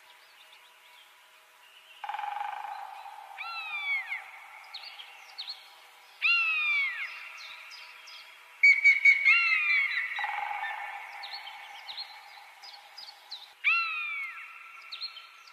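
Bird calls: four loud falling whistles and many short, quick chirps, over steady high tones that cut in and out abruptly.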